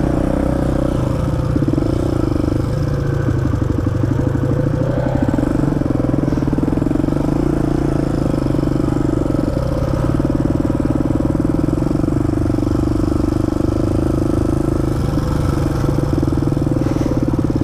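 Polaris Predator quad's engine running steadily as the ATV is ridden along a trail, with small rises and falls in pitch, heard through a microphone inside the rider's helmet.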